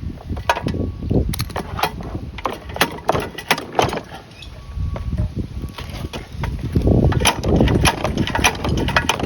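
Repeated clacks and knocks from trying to turn over a seized Briggs & Stratton flathead mower engine by hand, the engine not turning because sand has locked up the cylinder. Low wind rumble on the microphone underneath.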